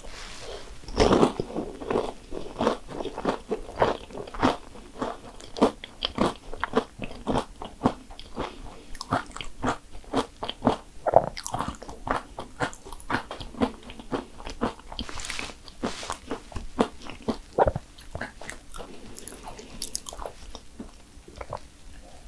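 Crisp crunching and chewing of a fried cannoli shell, a steady run of short crunches, with a louder bite about a second in.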